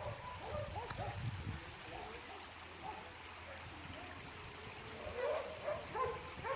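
Flash floodwater running steadily, with short animal calls in the first second or so and again near the end.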